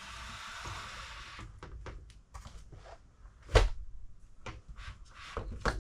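A newly hung window blind being tried out: a steady rustling slide as it moves for about a second and a half, then scattered small clicks and two sharp knocks, the louder one past halfway.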